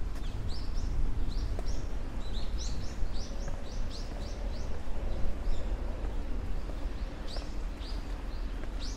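Small birds chirping: a quick run of short rising chirps, several a second, then a pause and a few more near the end, over a steady low outdoor rumble.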